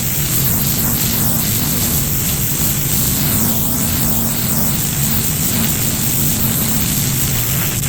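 Gas-engine pressure washer running steadily, with the hiss of high-pressure water spraying.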